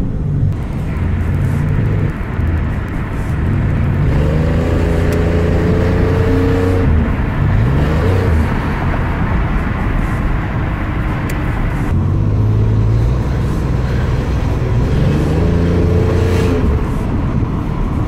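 A 1994 Chevrolet Camaro's engine and exhaust heard from inside the cabin while driving. It holds a mostly steady note, with brief changes in pitch about seven seconds in and again near the end.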